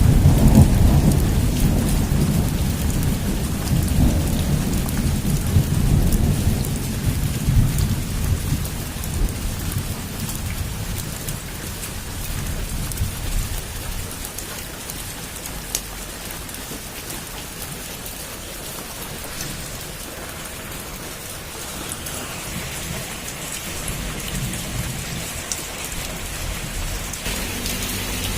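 Heavy rain falling steadily with a patter of drops, under a long roll of thunder that breaks at the start and rumbles away over about ten seconds.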